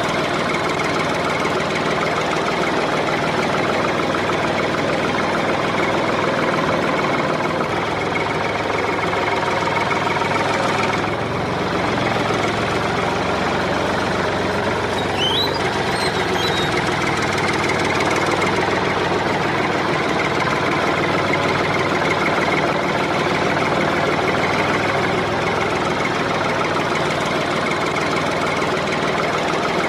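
Small engine of a DIY mini tractor running steadily, with a brief dip about eleven seconds in.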